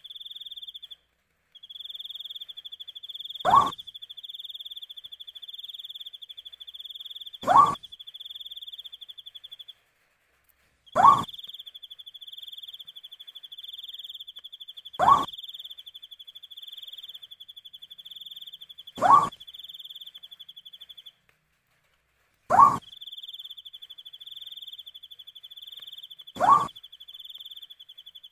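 An owl giving a single short hoot about every four seconds, each rising slightly in pitch, over a steady high cricket trill that stops briefly three times.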